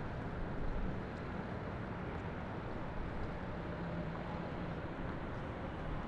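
Steady city traffic noise, an even low rumble, with a faint low hum that comes and goes.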